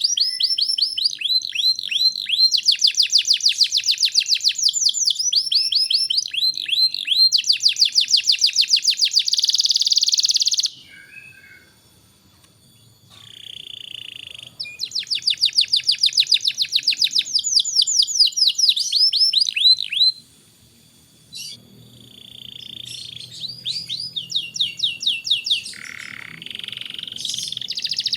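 Domestic canary singing vigorously, in long runs of fast, high trills made of rapidly repeated notes, broken by short pauses about eleven and twenty seconds in.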